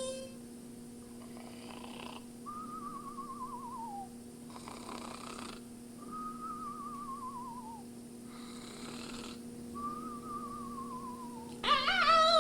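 Cartoon-style snoring voiced by a puppeteer, three times over: each time a raspy inhale, then a wavering whistle sliding down in pitch. Near the end a loud, wavering vocal cry cuts in.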